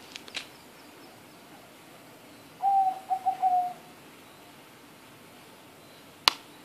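A bird calls once, a pitched phrase about a second long that breaks into a few notes and falls slightly. A single sharp click comes near the end.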